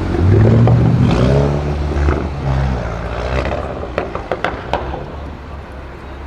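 Brabus-tuned Mercedes G-Wagon engine accelerating, its pitch rising through the first second and a half, then fading as it drives away. Several sharp cracks come through about midway as the sound dies down.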